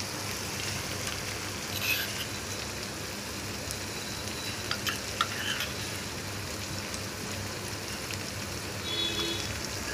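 Spice masala with freshly added poppy-seed paste frying in hot oil in a pan, a steady sizzle, with a few light clicks of the spatula about two and five seconds in.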